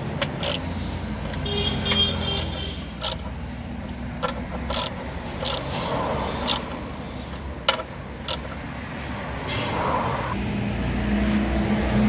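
Hand tools clicking and clanking against metal at irregular intervals as bolts on a car's front suspension are tightened, over a steady low rumble.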